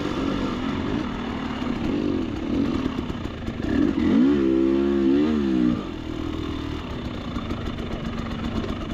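Dirt bike engine running under varying throttle, with a loud revving stretch about four seconds in, its pitch rising and falling for under two seconds before it settles back.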